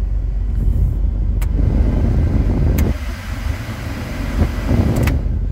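Heater/AC blower fan rushing air through the dash vents as it is switched up through its speeds. It builds over the first few seconds, drops off suddenly about three seconds in, then rises again, with a few faint clicks of the control. Underneath is the steady idle of the Jeep Wrangler Rubicon's 4.0-litre inline-six engine.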